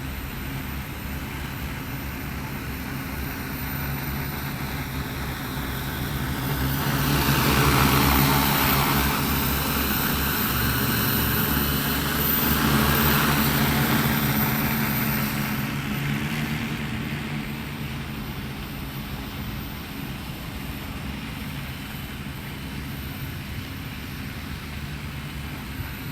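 15-litre crop-spraying multirotor drone flying, its propellers giving a steady hum that swells loudest from about seven to fifteen seconds in, then eases back.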